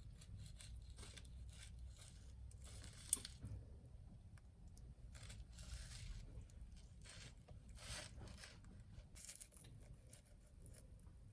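Faint scraping and rustling of food and utensils being handled during preparation, with one sharp click about three seconds in.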